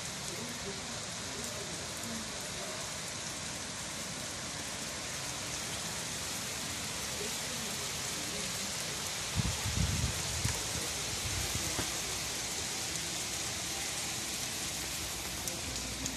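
Steady rain falling on a street and trees, an even hiss throughout. A short cluster of low thumps comes about ten seconds in.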